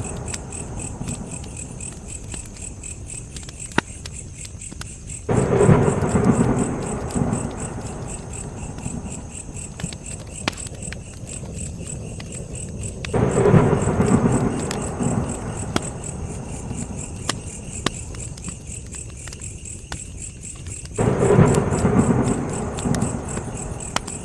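Campfire crackling with sharp scattered pops over crickets chirping steadily. Three times, about eight seconds apart, a sudden low swell breaks in and fades away over a few seconds.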